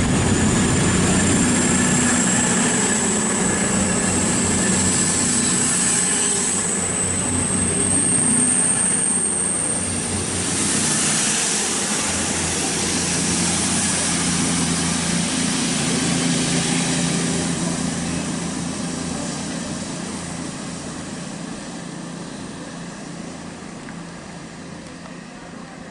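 Freight train hauled by a class 60 diesel locomotive running through the station, its wagons rolling over the rails, with a high rising whine over the first ten seconds. The noise fades away over the last ten seconds as the train goes off.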